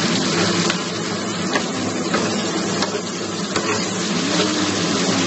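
Sambal terasi paste sizzling steadily as it fries in hot oil in a small pan, with a few light clicks as a spoon stirs it. A steady low hum runs underneath.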